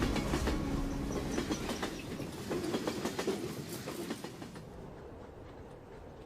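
A train clattering over the rails, a run of wheel clicks over a rumble that fades away over about four seconds.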